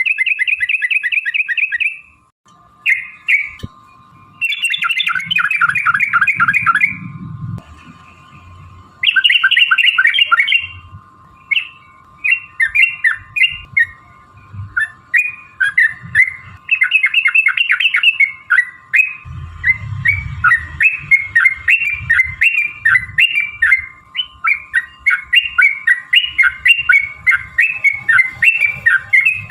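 Yellow-vented bulbuls (trucukan) chattering: long, fast rolling runs of repeated notes in the first half, then many short quick phrases one after another. A faint steady hum-like tone runs underneath.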